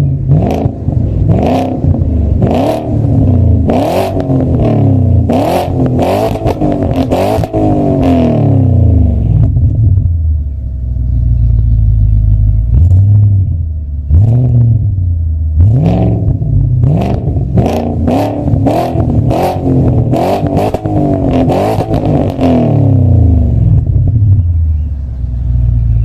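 Audi S8 with a Supersprint cat-back exhaust, revved repeatedly in quick blips, with sharp pops and crackles from the exhaust as each rev drops. It settles to idle for a few seconds about ten seconds in, then another run of revs follows.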